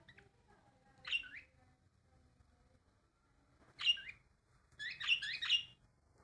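A bird chirping in short calls with quick pitch sweeps: one call about a second in, another near four seconds, then a quick run of several chirps near five seconds.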